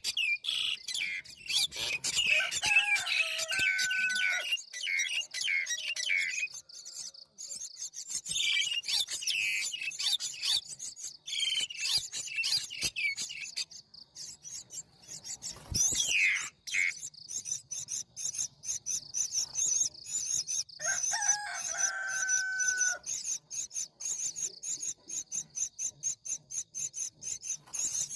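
Birds chirping and twittering in quick bursts, with a couple of longer held calls. Through the second half a high insect trill pulses quickly and evenly.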